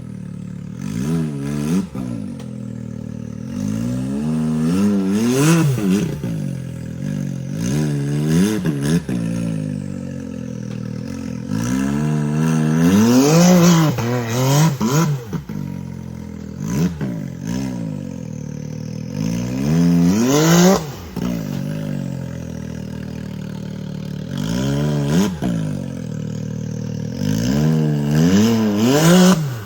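Side-by-side UTV engine revved in repeated short throttle bursts, about a dozen, each rising and falling in pitch, as the machine claws up a rock crawl. Clattering and scraping from the machine hitting the rocks stands out around the middle of the climb.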